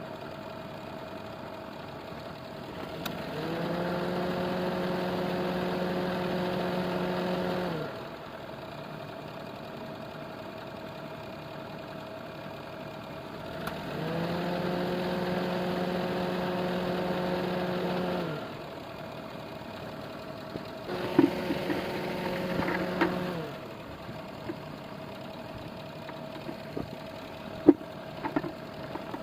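A car's engine running steadily during an air-conditioning refrigerant charge, with a pitched hum that comes on three times for about four seconds, rising as it starts and falling as it stops. A few sharp clicks come around the third hum and again near the end.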